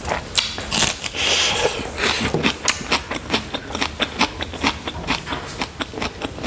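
Close-miked chewing of a mouthful of rice and pork: a rapid run of wet mouth clicks and smacks, with a short breathy rush about a second in.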